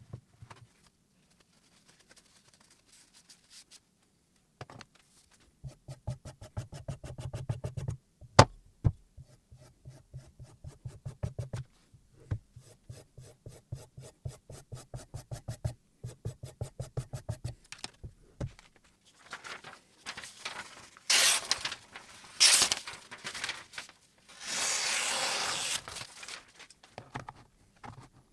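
Rapid back-and-forth strokes of a silicon carbide water stone along a Damascus chef knife's edge on a guided sharpening system, in several runs of quick, even strokes with one sharp click. Near the end there are louder, harsher rasping passes.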